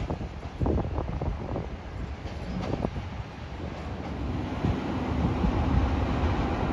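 CTA Brown Line 'L' train rolling over the elevated tracks, its wheels knocking sharply several times over rail joints and switches. About four seconds in, the sound gives way to a steady rumble that grows louder as a train approaches the platform.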